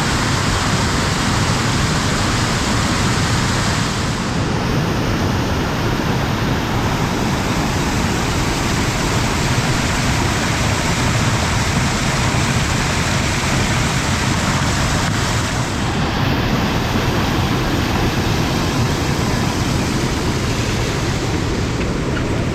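Heavy rain falling: a steady, loud rushing hiss with no let-up.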